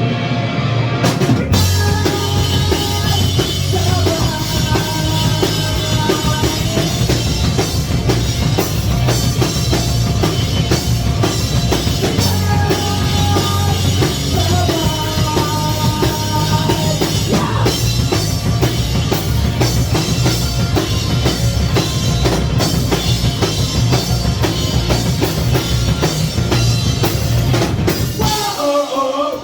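Live rock band playing an instrumental passage: a drum kit pounding out a fast beat under bass and a repeating guitar melody. Near the end the bass and drums drop out briefly.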